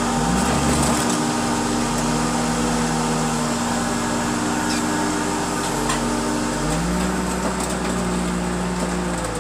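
Heavy machinery engine running steadily, with a deeper tone that comes in, holds and fades twice, typical of a car crusher's hydraulics working under load.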